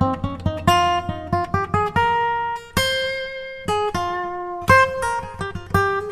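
Background music: an acoustic guitar picking a melody of separate plucked notes.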